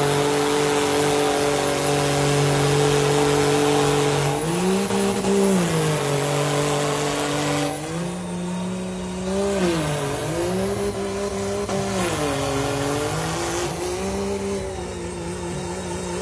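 Pickup truck engine held at high revs under heavy load, with a hiss of spinning tyres. About four seconds in, the revs start rising and falling again and again, and the tyre hiss fades away after about eight seconds.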